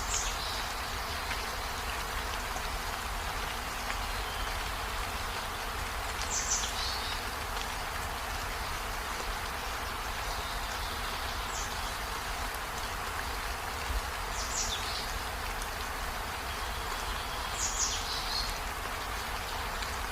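Steady rain, an even hiss, with five short high chirps scattered through it, each sliding quickly downward.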